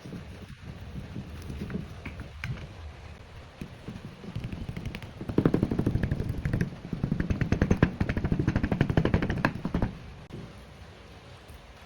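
A rapid run of sharp knocks, many a second, from about five seconds in to about ten seconds in, over faint kitchen background noise.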